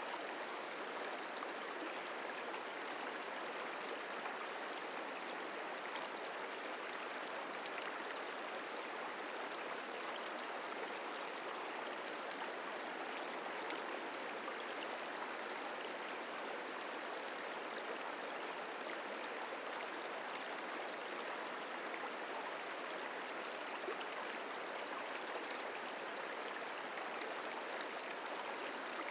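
The Merced River flowing: a steady, even rushing of water.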